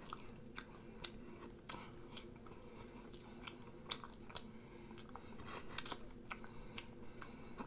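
Close-miked chewing of a fried potato slice: faint, irregular short mouth clicks and crunches over a low steady room hum.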